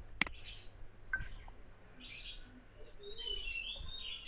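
Small birds chirping in short, repeated high bursts, with one sharp click a fraction of a second in.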